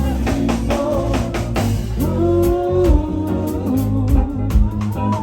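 Live rock band playing: a drum kit keeps a steady beat under bass and electric guitar, with a held melodic note about two seconds in.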